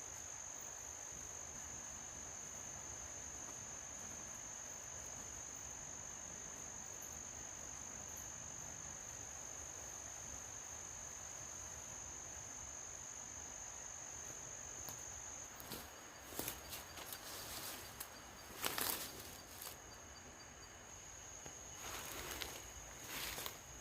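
A night insect trills steadily at one high pitch and drops out about two-thirds of the way through. A few loose rustling and crunching noises follow, the loudest near the end, before the trill comes back.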